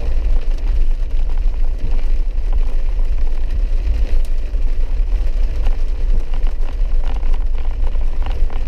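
Steady in-cabin vehicle noise while driving a wet dirt road: a deep, constant rumble of engine and tyres, with scattered small clicks and knocks.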